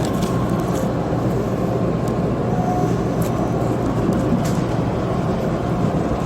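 Train running noise: a steady low rumble with a few faint clicks.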